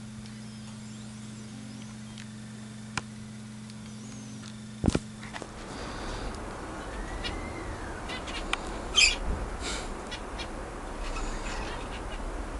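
A budgerigar chirping and calling in short bursts, with one rising-then-falling call and its loudest chirps about nine seconds in. Before the calls start there is a steady low hum, broken by a couple of sharp clicks about five seconds in, after which the hum stops.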